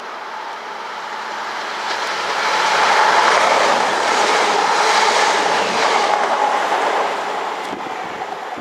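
A train passing by on the line, growing louder to a peak in the middle and then fading away as it goes.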